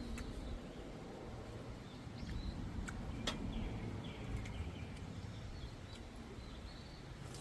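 Small birds calling in short, falling chirps over a steady low outdoor rumble, with a few faint clicks.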